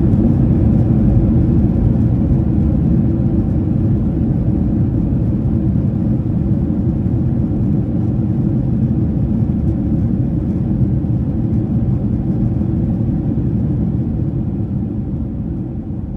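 Cabin noise inside a Boeing 737-800: a steady low rumble from the engines and airflow, easing off a little over the last few seconds.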